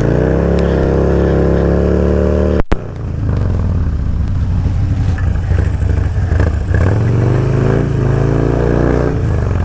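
Motorcycle engine revving up and holding high revs, then cutting off abruptly for an instant almost three seconds in. It comes back running rougher and revs up again twice, with the pitch climbing, near the middle and later on.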